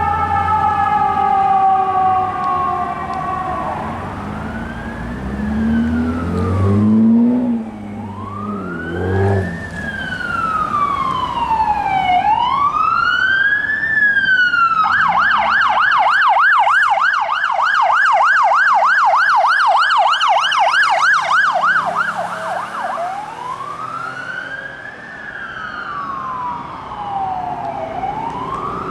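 Emergency vehicle electronic sirens on a fire engine and police cars responding: a steady falling tone for the first few seconds, then a slow rising-and-falling wail, switching to a fast yelp about 15 seconds in and back to the wail around 22 seconds. A vehicle engine rumbles low underneath early on.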